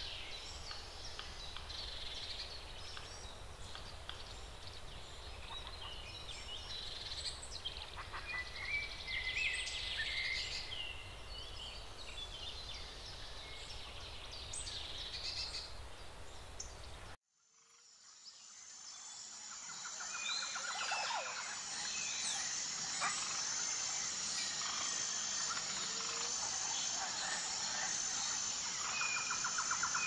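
Small birds chirping and calling over a low rumble. About seventeen seconds in the sound cuts out and fades back in to a different bird chorus with a steady high-pitched tone beneath it.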